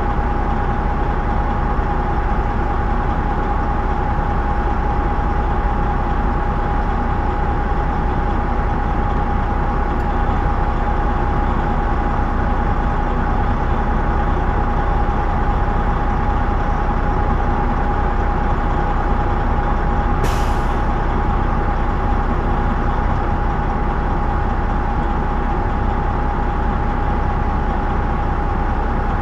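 Semi truck's diesel engine running steadily, heard inside the cab, with a constant high tone over it. About twenty seconds in there is one short burst of compressed-air hiss from the truck's air system.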